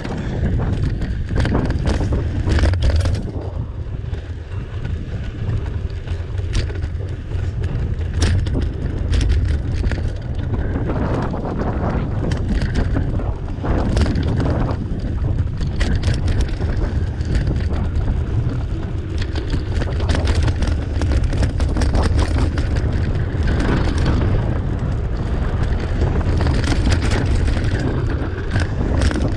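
Wind buffeting the microphone as a mountain bike is ridden over rough trail, with frequent sharp clicks and rattles from the bike over bumps.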